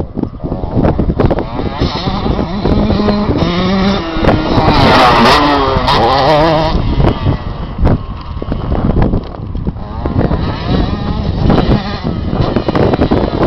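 Motocross dirt bike engine revving, its pitch rising and falling repeatedly, loudest around the middle, mixed with many short knocks or buffets.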